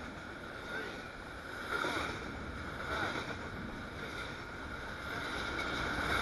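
Norfolk Southern intermodal freight train's double-stack container cars rolling past at close range: steady wheel-on-rail noise with a high steady hum, growing a little louder near the end.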